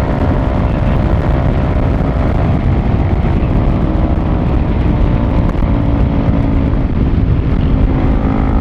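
Single-cylinder sport motorcycle engine running steadily at low road speed, heard from the rider's position, with a slight rise in pitch near the end. Heavy wind rumble on the microphone.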